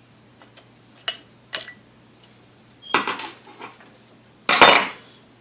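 Small metal parts and tools clinking and clattering as they are handled: two sharp clinks, a rattling clatter about three seconds in, and the loudest clatter near the end.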